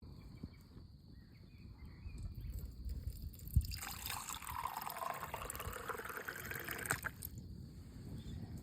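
Water trickling, loudest for about three seconds in the middle, over a steady low rumble, with one low knock.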